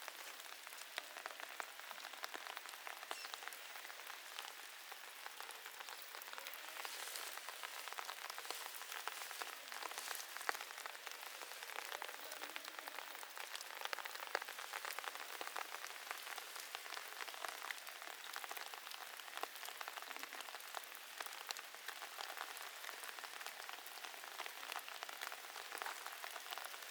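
Steady rain falling, heard as a soft even hiss dotted with many small drop ticks.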